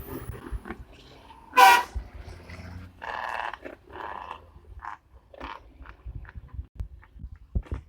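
A vehicle horn gives one short, loud toot about a second and a half in, followed by fainter bursts of sound over low rumbling thumps.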